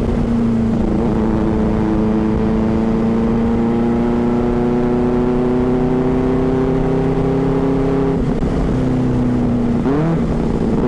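Superbike engine pulling steadily under way, its pitch climbing slowly as it gathers speed. About eight seconds in the note breaks briefly, as at a gear change, and near the end it revs up in quick rising sweeps, with wind noise underneath.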